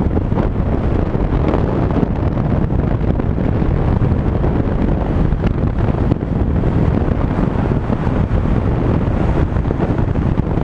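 Wind buffeting the microphone, a steady loud rumble of noise with no clear tones.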